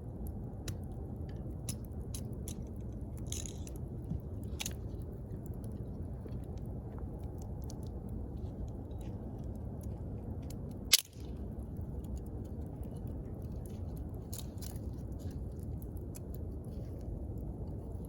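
Wood bonfire burning: a steady low rumble of flame with scattered small crackles and pops, and one loud sharp pop about eleven seconds in.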